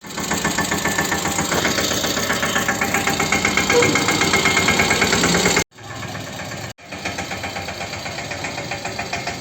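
Mahindra 215 mini tractor's single-cylinder diesel engine running with an even, pulsing chug. The sound drops out abruptly twice a little past halfway, then carries on somewhat quieter.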